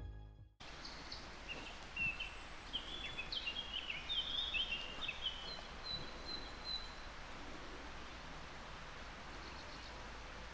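Songbird singing a string of short, quick chirping phrases for several seconds, then stopping, over a steady background hiss of outdoor ambience.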